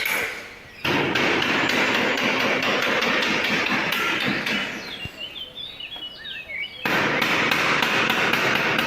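Loud, rapid, continuous knocking that starts abruptly about a second in, dies away after a few seconds and starts again near the end. In the gap a bird chirps several times.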